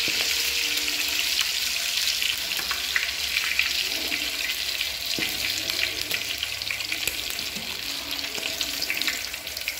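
Chicken pieces sizzling in hot oil in an aluminium wok, with scattered pops and clicks as they are turned with a metal skimmer. The sizzle slowly dies down.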